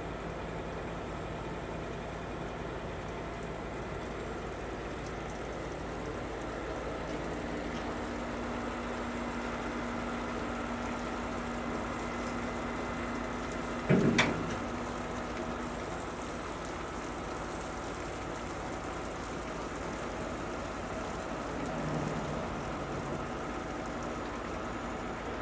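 Heavy truck diesel engine running steadily, with a single sharp metallic bang about 14 seconds in and a smaller low sound near the end.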